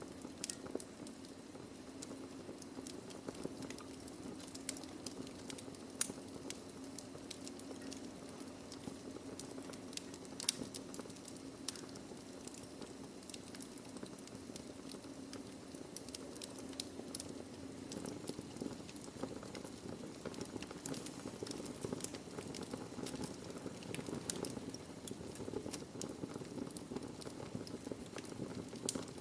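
Wood fire in a fireplace burning steadily, with a low rumble of flame under frequent small crackles and sharp pops from the burning logs. One pop about six seconds in is louder than the rest.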